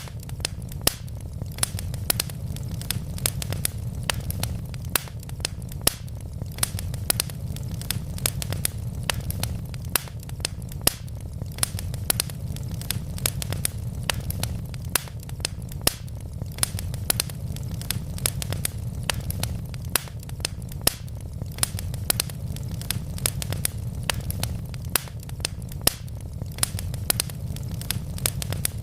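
Wood fire of burning logs crackling, with frequent irregular sharp pops and snaps over a steady low rumble.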